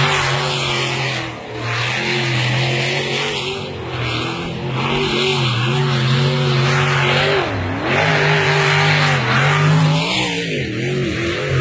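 Racing boat engine running hard at high revs, its pitch wavering and dipping briefly a few times, with a broad hiss over it.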